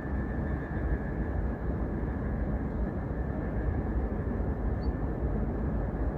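Steady low rumbling noise with a faint, even high hum above it, with no distinct events.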